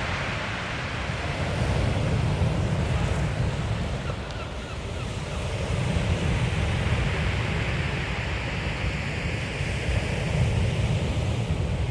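Sea waves washing on a shingle beach, swelling and falling, with wind buffeting the microphone in a heavy low rumble.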